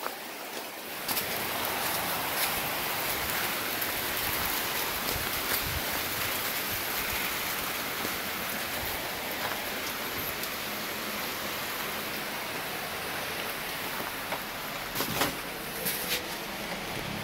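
Steady rain falling, an even hiss, with a few sharp knocks near the end.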